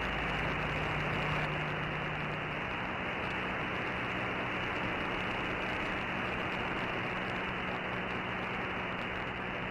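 Radio receiver static: steady band hiss from a single-sideband radio on an open channel, cut off above the voice passband, with a faint low hum beneath. The distant station has faded down into the noise with shifting skip conditions.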